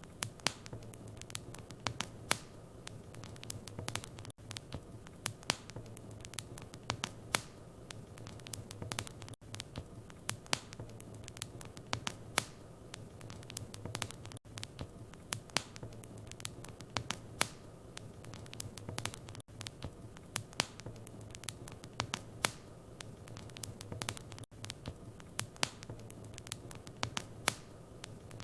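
Wood fire in a fireplace crackling, with frequent irregular sharp pops over a low steady hum. There is a brief dropout about every five seconds.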